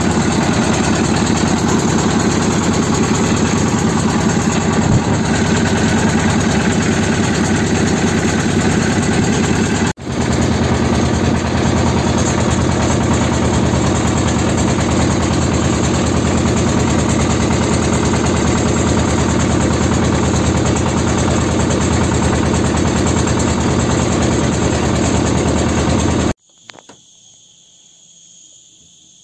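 Engine of a small wooden river motorboat (pompong) running steadily at an even speed, with a very brief dropout about a third of the way in. It cuts off suddenly near the end, leaving the high steady chirring of insects.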